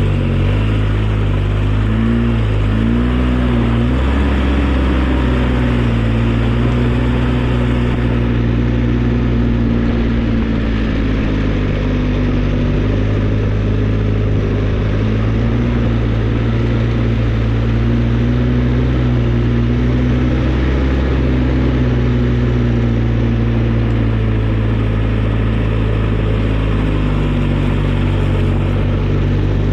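Engine of a snow-plowing vehicle running steadily. Its pitch rises and falls a few times in the first few seconds, then holds even.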